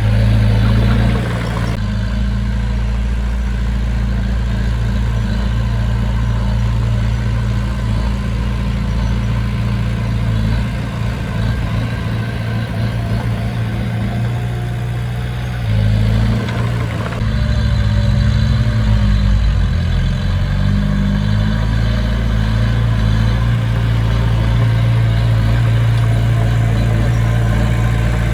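Heavy diesel engine of construction machinery running steadily, its note shifting about two seconds in and again a little past halfway.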